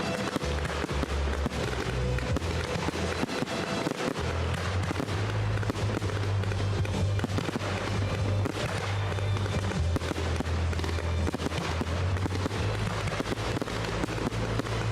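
A fireworks display going off continuously: a dense stream of crackling and bangs, with a low musical bass line playing underneath.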